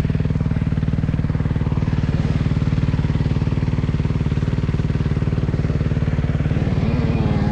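Motocross bike engine idling steadily with a fast, even firing pulse.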